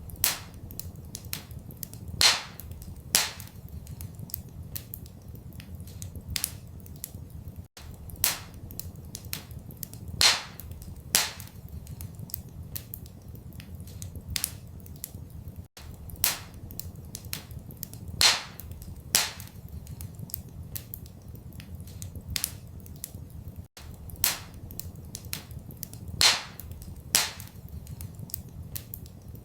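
Wood fire crackling in a fireplace, with frequent small snaps and a few louder sharp pops, over a steady low rumble. The same stretch of crackling repeats about every eight seconds, as a loop does.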